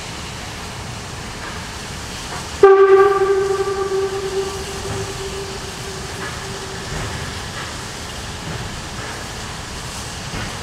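A narrow-gauge steam locomotive's whistle gives one sudden loud blast about two and a half seconds in, a single pitched tone that dies away over a second or two, over steady background noise.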